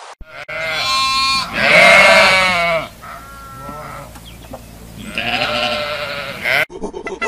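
Flock of sheep bleating: several long, quavering bleats, the loudest about two seconds in.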